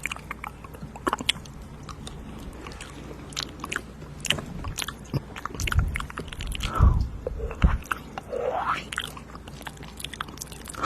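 Close-miked ASMR mouth sounds: many wet clicks and smacks, with a few heavy thumps in the middle and a couple of sliding, slurping sounds after them.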